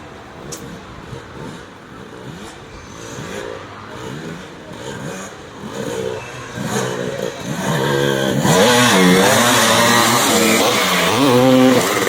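Vintage motocross bikes racing, engines revving up and down through the throttle and gear changes, several at once. The engines get much louder about two-thirds of the way in as bikes come close.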